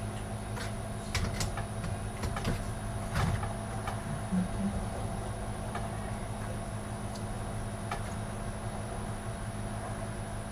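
Scattered light clicks and knocks of computer parts and cables being handled and fitted into a PC case, about ten over the first eight seconds, over a steady hum with a faint high whine.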